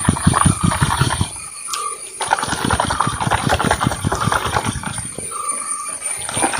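A bottle of milk replacer mixed with warm water being shaken hard by hand, the liquid sloshing in quick rhythmic strokes to dissolve the powder, with a short pause about a second and a half in.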